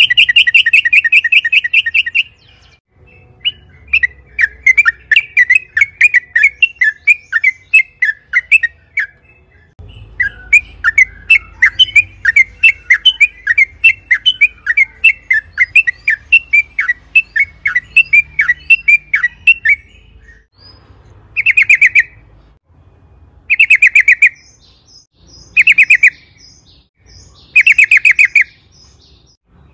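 Yellow-vented bulbul (trucukan) singing: a rapid rattling trill, then a long run of quick bubbling, chattering notes, then short rattling trills repeated about every two seconds near the end.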